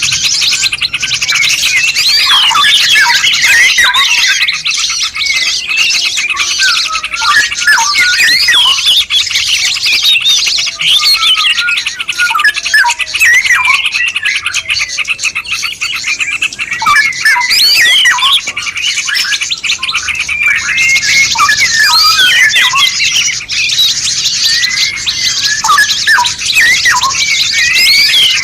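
Dense mixed songbird chorus of rapid chirps, whistles and short pitch-gliding notes, many birds calling over one another above a steady high hiss: a compiled masteran tutoring track of Indonesian cage-bird songs.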